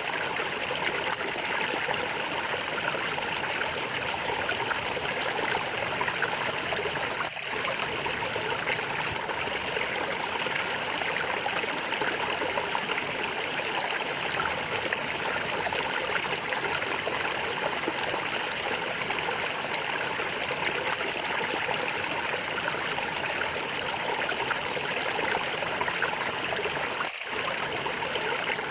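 Flowing water gurgling steadily, with two brief dips in level, about seven seconds in and near the end.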